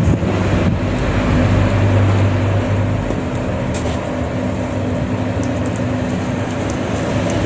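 Steady low rumble with a constant low hum, like a running motor vehicle.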